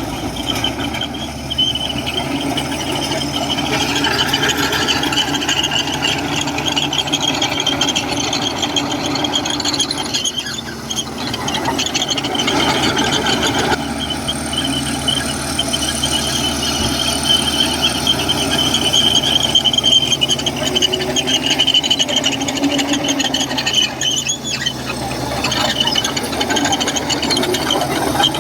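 Komatsu crawler bulldozer working with its diesel engine running under load and a loud, steady, high metallic squeal, typical of the steel tracks and undercarriage as it moves.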